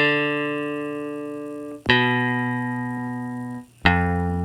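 Picked electric bass sound from GarageBand's Smart Bass, playing three held notes about two seconds apart, each struck sharply and then fading; the last note is lower.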